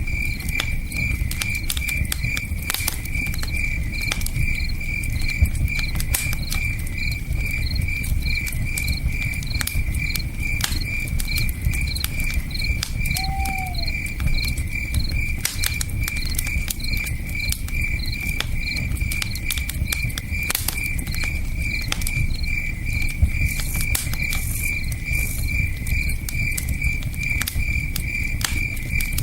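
A cricket chirping steadily, about two chirps a second, over a crackling campfire with scattered sharp pops and the low rush of a river. A single short falling call sounds once about thirteen seconds in.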